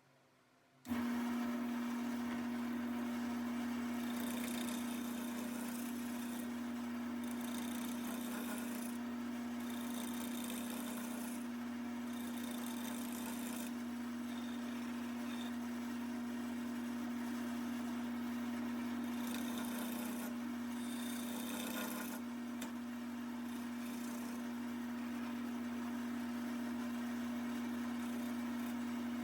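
Wood lathe switched on about a second in and running with a steady motor hum. Several bursts of scraping of a second or two each come from work against the spinning walnut leg.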